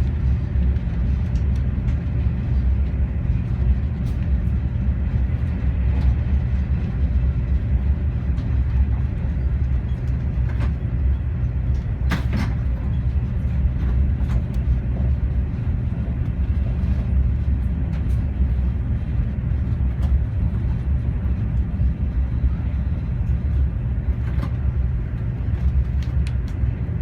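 Renfe AVE high-speed train running at speed, heard from inside the passenger car as a steady low rumble, with a few brief clicks, the clearest about twelve seconds in.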